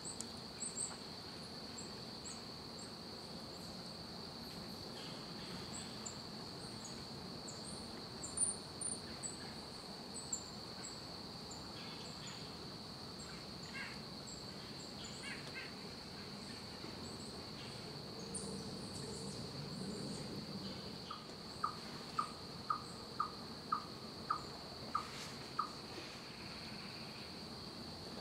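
Small woodland songbirds calling, with thin high chips scattered throughout over a steady high insect drone. Near the end comes a run of about nine evenly spaced, lower calls, roughly two a second.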